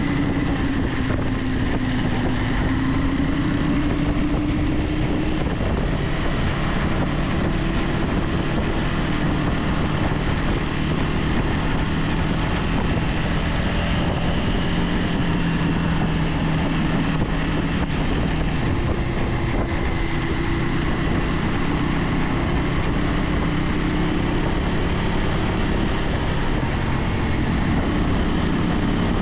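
KTM 390 Adventure X's single-cylinder engine running steadily at riding speed, its note drifting gently up and down with the throttle, under heavy wind noise on the helmet-mounted action camera's microphone and tyre roar.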